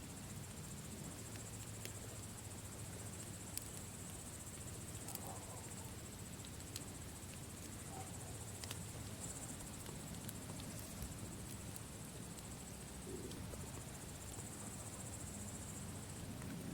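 Campfire crackling with scattered sharp pops, over a steady high-pitched trill of crickets.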